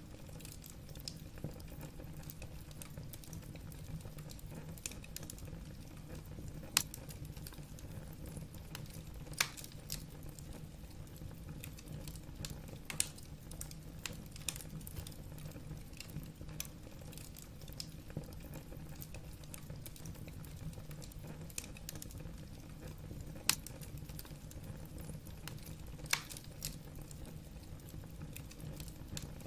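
Wood fire burning in a fireplace: a steady low rumble of the flames with irregular crackles and sharp pops from the burning logs, a few louder pops standing out.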